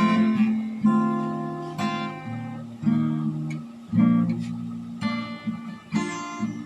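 Acoustic guitar strummed, a chord struck about once a second and left to ring, playing the lead-in to a worship song.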